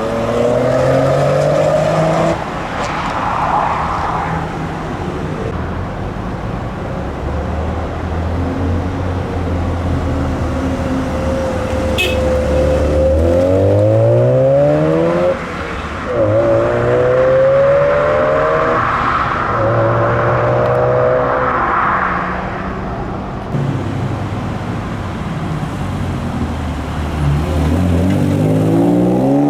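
Car engines revving and accelerating hard, several times in turn. Each rises in pitch through the revs, with brief drops between gear shifts. There is a single sharp click about twelve seconds in.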